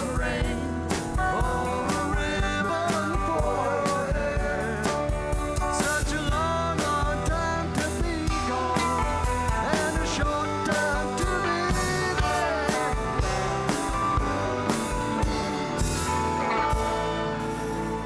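Live rock band playing: drum hits, bass and a bending lead melody line. About sixteen seconds in, the band settles onto a long held low chord.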